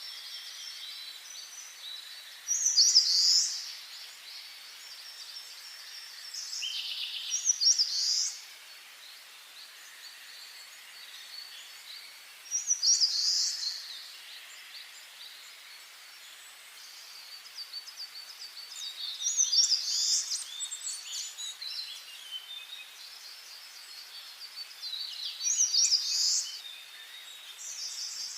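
Songbirds singing in a forest: one bird repeats a short, loud song phrase about every five to six seconds, over softer, continuous chirping from other birds.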